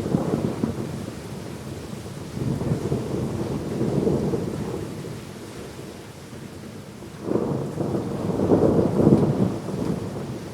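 Rolling thunder over steady rain: a rumble right at the start, another swelling a couple of seconds in, and a louder, longer roll starting about seven seconds in.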